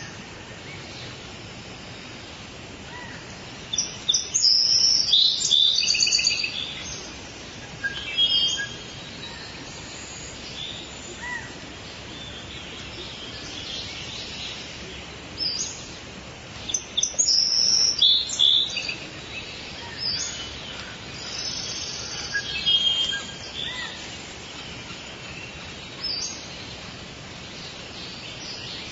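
Several birds calling and singing over a steady background hiss of forest ambience, with loud bursts of high chirps and trills a few seconds in, again past the middle, and near the three-quarter mark.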